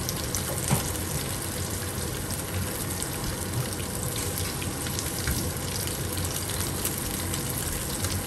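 Sea bass fillets frying in hot oil in a pan: a steady sizzle with small scattered crackles and pops.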